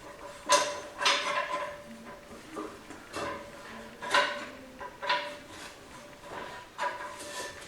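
Metal automatic-transmission parts clinking and scraping together as they are handled and fitted, with about half a dozen sharp clinks that ring briefly.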